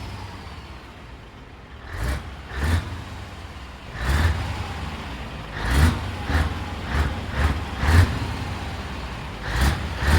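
Scania V8 diesel truck engine idling, then blipped on the throttle again and again: about ten short, sharp revs, some in quick runs of three or four, with idle between them.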